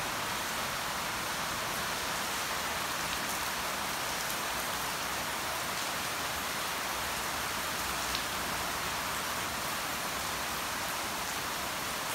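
A steady, even hiss of noise that does not change, with one faint tick about eight seconds in.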